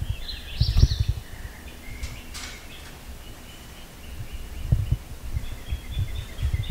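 Songbirds chirping and singing outdoors, with bouts of low rumbling thumps about half a second in, around four and a half seconds, and again near the end.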